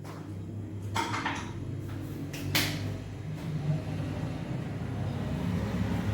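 Kitchen handling sounds while mixing dough: a few sharp clicks and knocks of utensils and containers against a bowl, over a low steady hum.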